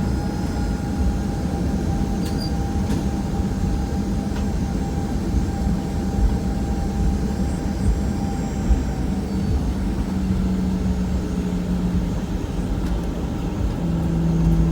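Boeing 737-800's CFM56-7B engines heard from inside the cabin while the jet taxis: a steady low hum and rush with a faint higher whine and a few light rattles. The engine hum grows louder near the end.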